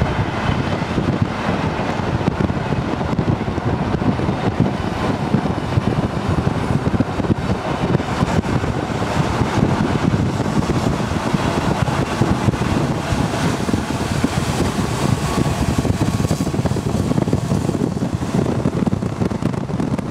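Running noise of a moving train heard from on board: a steady rumble of the wheels on the track, with wind rushing on the microphone.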